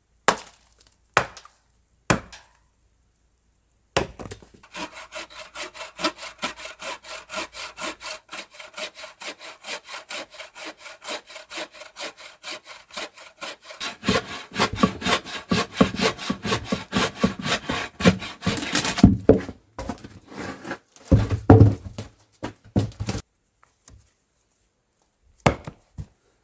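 Hand saw cutting through wood with quick, even back-and-forth strokes for about fifteen seconds, the strokes growing heavier near the end. A few loud cracks or knocks follow.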